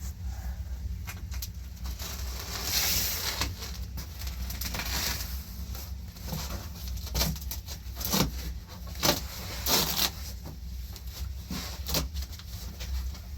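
Scattered, irregular knocks and clicks with short bursts of rustling or scraping over a steady low hum.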